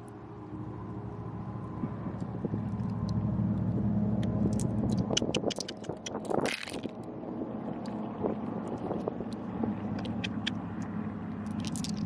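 A motor engine running steadily, building in level over the first few seconds, with scattered sharp clicks and scrapes and one short loud rush of noise about six and a half seconds in.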